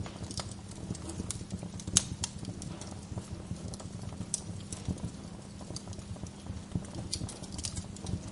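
Wood fire crackling in a fireplace: irregular sharp pops and snaps, with one loud pop about two seconds in, over a steady low rumble.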